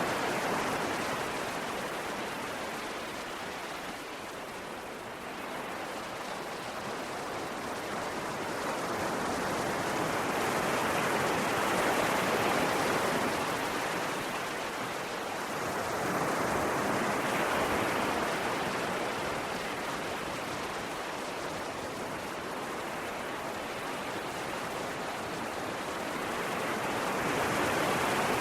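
Ocean waves washing onto a shore: a continuous rushing wash that swells and fades slowly, with surges every several seconds.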